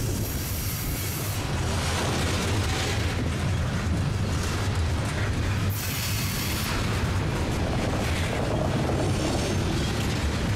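Loaded Norfolk Southern coal train's open hopper cars rolling past at close range: a steady heavy rumble of steel wheels on the rails, with a brief high hiss near the start and again about six seconds in.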